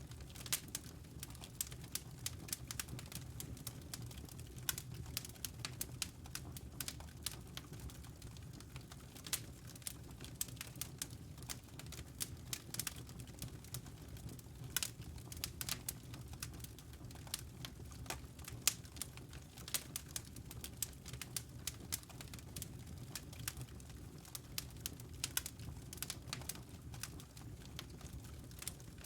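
Wood fire burning in a fireplace: frequent irregular crackles and sharp snaps from the logs over a steady low rumble of the flames.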